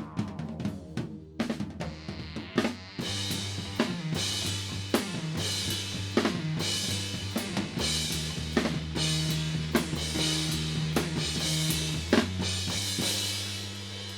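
Band music led by a drum kit: separate drum hits for the first few seconds, then held low bass notes come in under crashing cymbals and regular drum strikes, easing off near the end.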